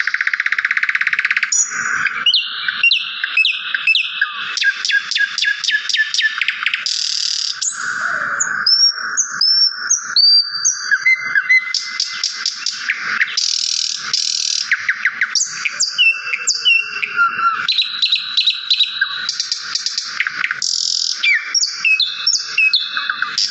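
Small songbirds chirping and singing without a break: fast trills of rapidly repeated notes mixed with short whistled slides and chirps.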